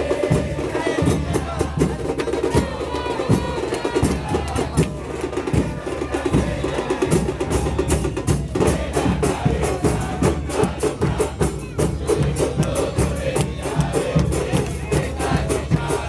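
Football supporters' band drums and percussion beating a fast, steady rhythm, with voices singing along.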